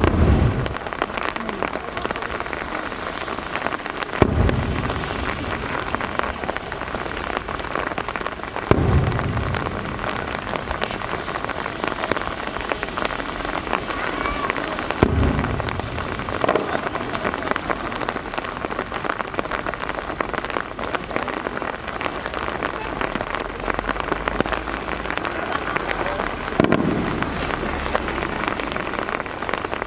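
Steady rain pattering, with about five deep fireworks shell bursts booming a few seconds apart, each dying away slowly.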